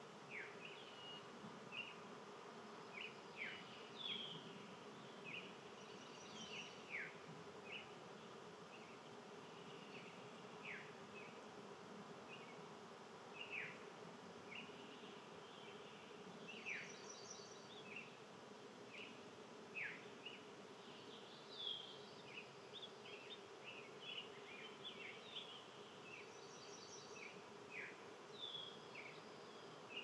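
Small birds chirping: many short, sharp down-slurred chirps scattered irregularly, over a faint steady low hum.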